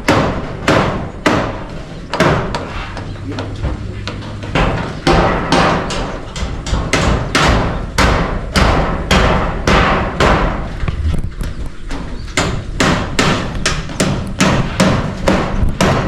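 Steady hammer blows, about two a second, with a short metallic ring after each: roofing nails being driven into corrugated iron roofing sheets. The blows thin out briefly about two seconds in, then pick up again.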